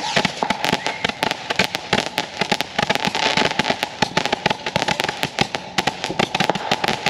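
Consumer fireworks going off in a dense, unbroken run of sharp crackling pops, many each second.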